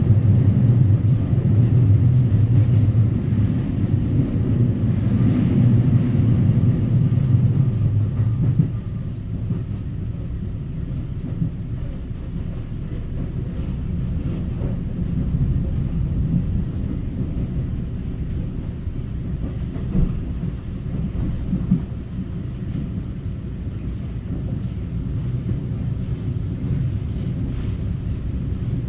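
Interior of a Taiwan Railway EMU900 electric multiple unit running along the line, a steady low rumble. It is louder with a strong low hum for the first eight seconds or so, then drops to a quieter rumble with a couple of short knocks later on.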